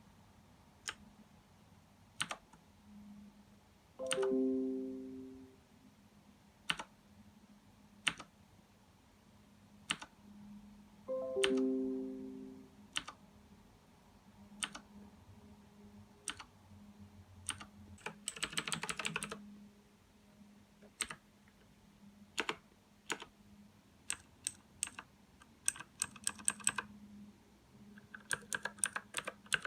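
Mechanical keyboard keys clicking, one at a time at first and then in quick runs of typing. The keys are most likely the Outemu Blue clicky switches on the Aukey KM-G6. Two sustained musical notes ring out and fade, a few seconds apart.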